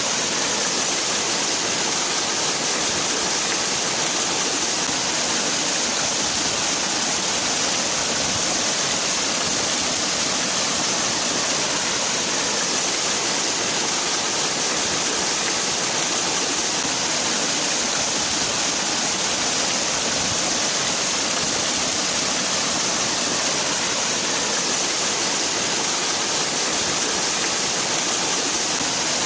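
Waterfall: water falling and splashing in a steady, unbroken rush, heavy in high hiss and light in the low rumble.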